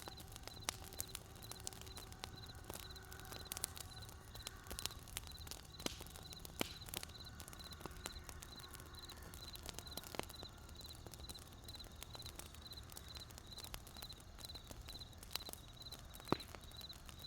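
Wood campfire crackling with scattered sharp pops over a low steady rumble, while a cricket chirps in an even, unbroken rhythm of short high pulses. One of the louder pops comes near the end.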